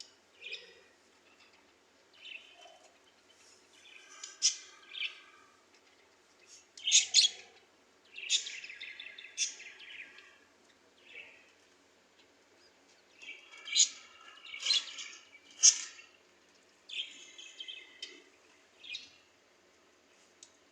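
Parrot chirping and squawking in short, irregular calls with brief pauses between them.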